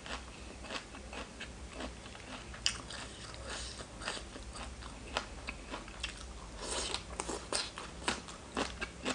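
A person chewing and crunching mouthfuls of papaya salad with raw vegetables close to the microphone: a run of irregular crisp crunches and wet chewing, busier and louder in the last few seconds.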